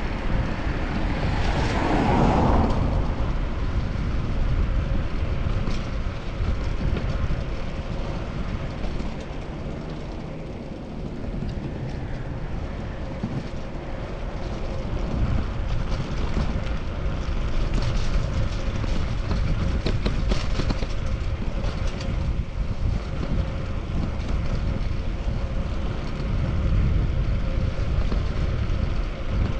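Wind rumble and road noise from a fixed-gear bicycle ride through city traffic, picked up on a chest-mounted action camera. A motor vehicle passes close about two seconds in, its sound falling in pitch as it goes by.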